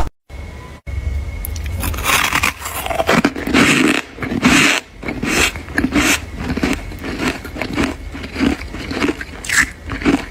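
Close-up biting and chewing of hard shaved ice, a string of irregular crunches. There is a brief gap of near silence right at the start.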